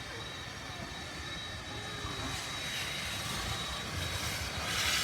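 Steam from Rx224, a South Australian Railways Rx-class steam locomotive: a steady hiss over a low rumble, growing louder from about halfway and strongest near the end.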